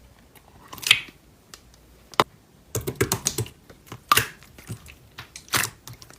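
Slime being pressed and played with by hand, making irregular clicking and crackling pops: a few at first, then more frequent from about three seconds in.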